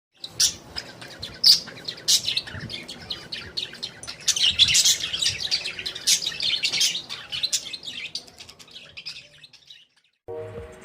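Parrot chirping and calling in rapid, sharp high notes, which stop about nine and a half seconds in.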